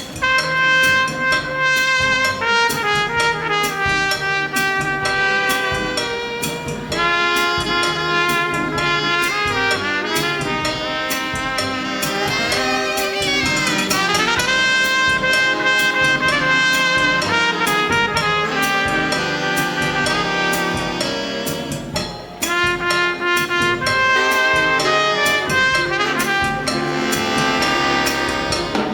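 Big band playing an instrumental passage of a cha-cha-cha arrangement: brass and saxophones carry the melody over a drum kit beat. There is a short break about 22 seconds in.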